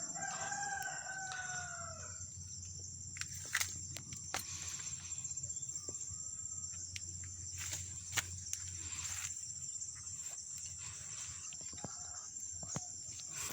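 A rooster crows once near the start, one long call of about two seconds that falls slightly in pitch. Crickets keep up a steady high buzz, and a few sharp clicks sound later on.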